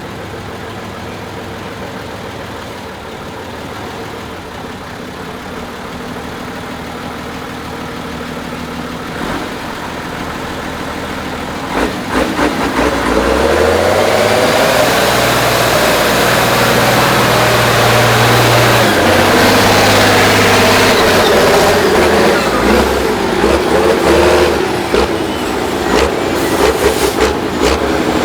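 Praga V3S 6x6 truck's diesel engine running at low revs, then about twelve seconds in getting much louder and revving up and down under load. Sharp knocks and clatters come in over the engine near the end.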